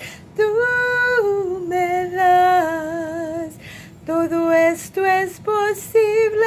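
A woman singing solo, a slow worship song in Spanish, holding long notes in short phrases with breaths between them.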